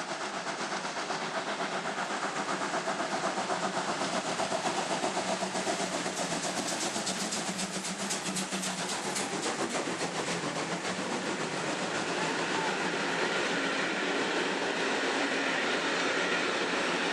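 Steam-hauled express train running by, with a rapid, even clatter that grows louder toward the end.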